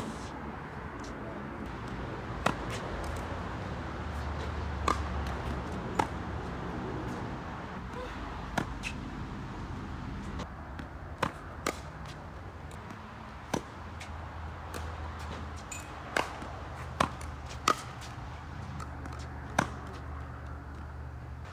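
Tennis balls struck with a racket: sharp single pops every second or two, irregularly spaced, over a steady low hum.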